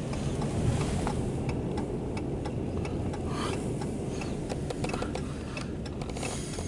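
The last cars of an empty autorack freight train rolling past and away: a steady low rumble with scattered sharp clicks.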